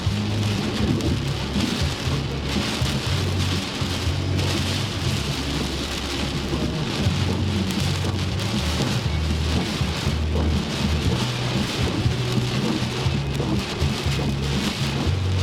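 Heavy storm rain falling hard and steadily, with a deep uneven rumble underneath.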